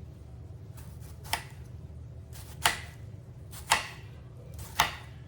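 Kitchen knife dicing vegetables on a cutting board: four separate chops about a second apart, over a steady low hum.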